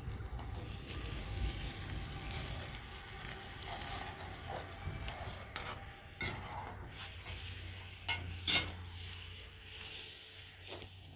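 Food sizzling in a pan while it is stirred with a utensil, with a few sharp clicks of a spoon or utensil on the pan about six seconds in and twice near eight seconds.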